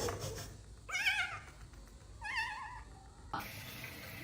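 A cat meowing twice, two short calls each with a wavering, warbling pitch. About three seconds in, a steady hiss takes over.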